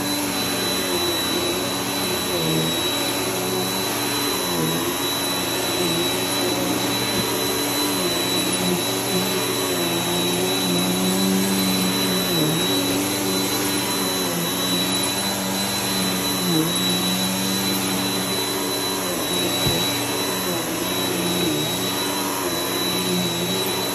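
Vacuum cleaner running steadily, its motor pitch dipping briefly every couple of seconds as it is worked back and forth, with a thin high whine over the rush of air.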